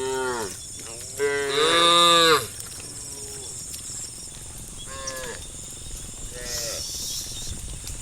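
Cattle mooing: several short calls, the longest and loudest running from about one to two and a half seconds in.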